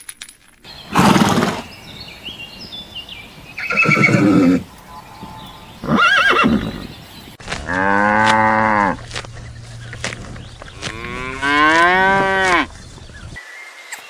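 Farm animal calls: about five separate drawn-out cries, the longest and strongest about eight seconds in.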